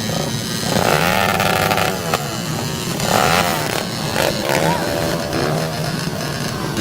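Dirt bike engine revving, its pitch rising and falling in several short surges over a steady lower engine drone.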